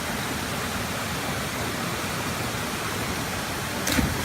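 Steady rush of a waterfall, an even hiss of falling water. A short thump comes near the end.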